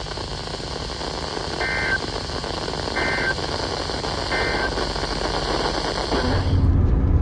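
Weather-radio broadcast static hissing, carrying three short electronic data bursts about 1.3 seconds apart: the EAS end-of-message codes that close the severe thunderstorm warning. About six seconds in, the static cuts off and a low hum takes its place.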